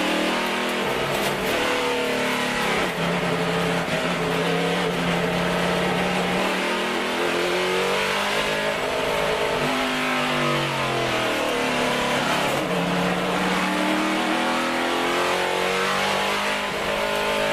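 Chevrolet SB2.2 377ci small-block V8 race engine running hard under load, its note climbing and falling through the revs. The pitch dips low about ten seconds in, then climbs again.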